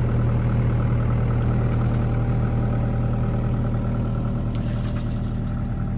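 A large engine running steadily at a constant speed, a deep even hum with no revving.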